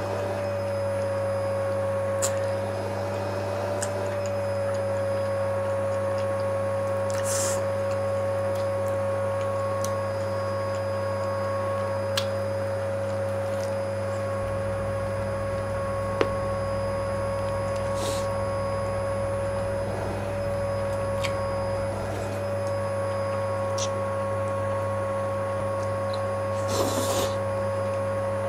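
A steady machine hum with a constant mid-pitched whine, unchanged throughout, with a few faint clicks scattered over it.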